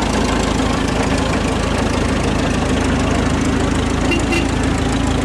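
Vintage truck engine idling steadily, with an even, continuous mechanical beat.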